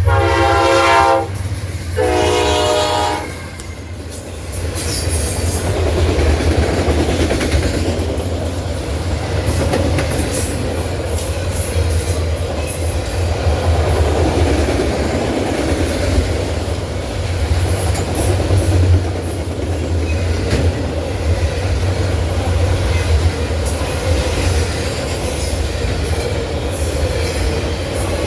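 A diesel freight locomotive's air horn sounding: one blast ending about a second in, then a short second blast. The train then rolls past with a steady low engine rumble and the clatter of wheels on the rail joints.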